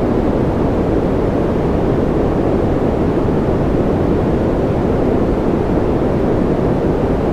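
Electronically generated noise for sleep: a steady, unchanging hiss with a deep, rumbly weight and little treble.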